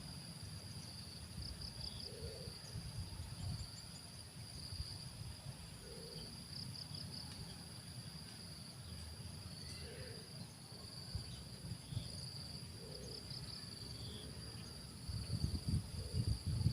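Spotted dove cooing faintly, a short low coo about every three to four seconds, over steady high-pitched insect chirring. Low rumbling thuds grow louder near the end.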